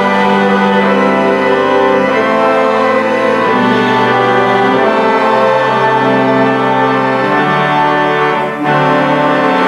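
Church organ playing a hymn: slow held chords that change every second or two, with a brief break between phrases about a second before the end.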